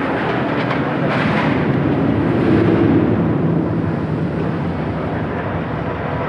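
Steady rumble of rail cars rolling along a track, growing a little louder about two to three seconds in.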